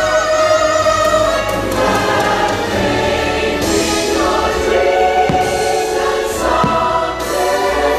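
Choir singing with music from a fireworks show soundtrack, loud and continuous, with a couple of short thumps in the second half.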